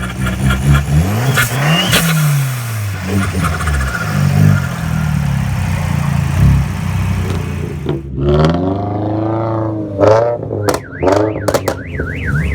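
Car engines revving, their pitch rising and falling several times, with a bigger rev around two-thirds of the way through. Near the end a car alarm starts its fast warbling siren.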